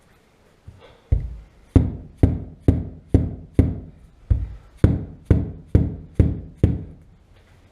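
A run of about twelve dull, heavy knocks, evenly spaced at roughly two a second, starting about a second in and stopping near the end.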